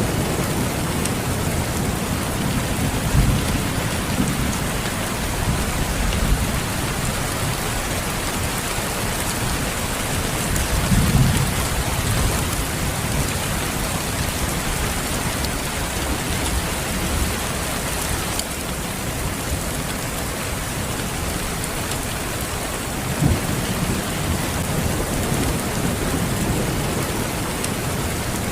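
Steady heavy rain hissing, with low rumbles of distant thunder swelling a few times: near the start, about eleven seconds in and again near the end.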